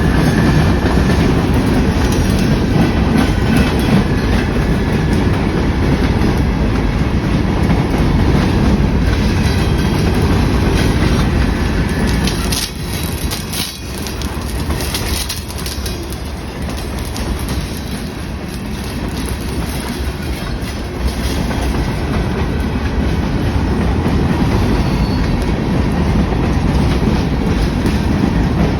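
A train rolling past: a steady, loud rumble of rail cars with wheel clatter on the track. The sound dips for a few seconds about halfway through, then builds again.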